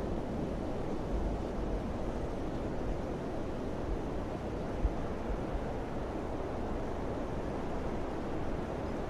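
Summer wind blowing steadily with a low rushing sound, with a brief low thump about five seconds in.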